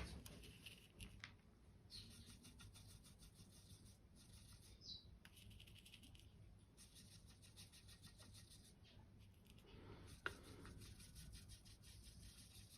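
Faint rubbing and light scraping of a Chinese ink brush working paint on a palette, with one sharper tap about ten seconds in.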